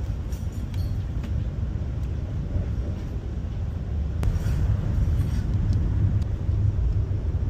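High-speed train running, heard inside the carriage as a steady low rumble with a few faint clicks; the rumble grows a little louder about four seconds in.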